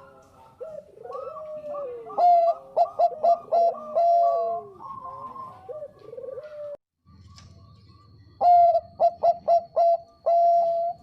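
Zebra dove (perkutut bangkok) cooing. A bout of quick, clipped notes is mixed with falling coos, then after a break about seven seconds in comes a second run of about six quick notes that ends in one held note.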